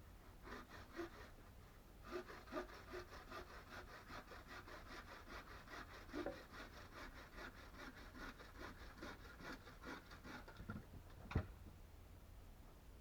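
Hand saw cutting wood in quick, even strokes, about five a second. After a short first burst it saws steadily, stops about ten seconds in, and a single sharp knock follows a second later.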